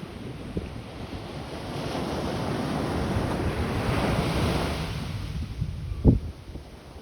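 Ocean surf: a wave swells and washes in, loudest about midway, then falls away. Wind buffets the microphone, with one sharp low thump about six seconds in.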